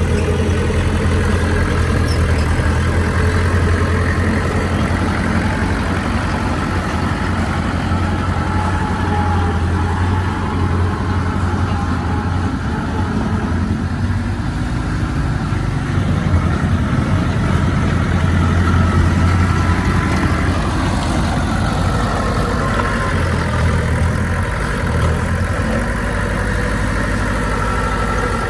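Heavy diesel earthmoving machinery running steadily throughout, a low engine hum whose strength rises and falls a little as the load changes.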